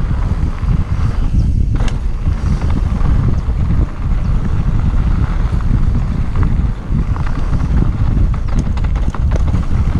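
Wind buffeting the microphone of a mountain bike riding a rough trail at speed, with the bike's frame and parts rattling and knocking over the ground.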